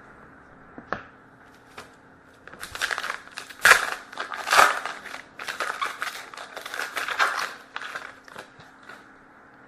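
Trading card pack wrapper being crinkled and torn open by hand. A couple of light clicks come first, then about five seconds of dense crinkling and rustling, loudest around four seconds in.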